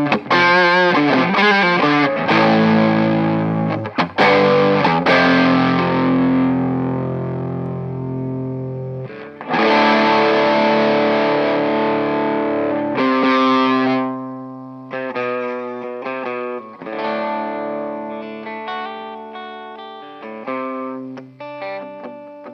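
1997 Epiphone Les Paul Custom electric guitar played through a distorted amp: sustained, wavering chords, a loud new chord struck about nine and a half seconds in, then lighter separate picked notes, the level falling toward the end.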